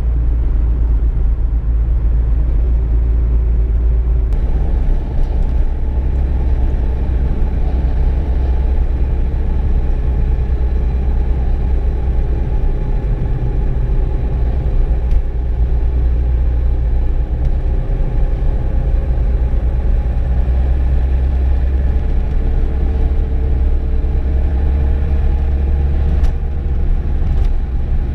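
VW Golf Mk2 heard from inside the cabin while driving: a steady low rumble of engine and road noise. About four seconds in, the road noise becomes fuller in the middle range.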